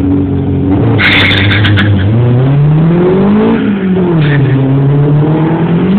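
Turbocharged 1.8-litre four-cylinder engine of a VW Fox under acceleration: it holds a steady note, then the revs climb quickly, drop sharply at a gear change, and climb again. A brief cluster of sharp clicks comes about a second in.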